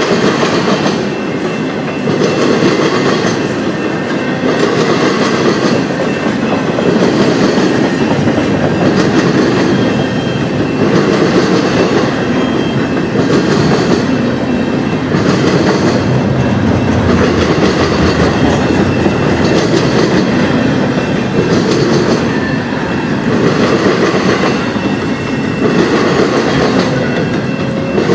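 Freight train cars rolling steadily past, the wheels clacking over the rail joints in a rhythm that repeats every second or two.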